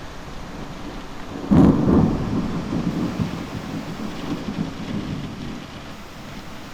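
A close clap of thunder breaks sharply about one and a half seconds in, then rumbles on and fades over the next few seconds. Under it is the steady hiss of heavy rain.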